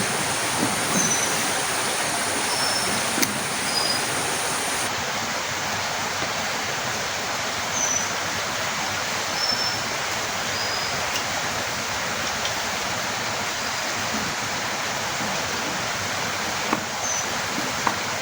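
Heavy rain falling steadily, an even hiss with a few faint high chirps and small taps scattered through it.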